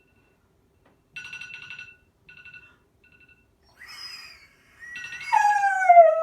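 A phone alarm sounding in short repeated beeping bursts, with a Siberian husky answering it. The husky gives a short rising whine about three seconds in, then a loud, drawn-out vocalisation from about five seconds in that slides steadily down in pitch.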